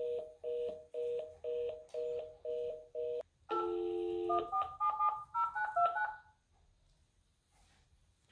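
Telephone line tones: a two-tone busy signal beeping about twice a second, cutting off after about three seconds, then a brief dial tone and a quick run of keypad beeps as a number is dialled.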